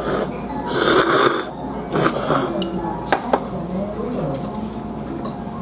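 Tableware clinking at a meal: chopsticks and dishes knocking together in a few sharp clicks, with a short hissing rush about a second in.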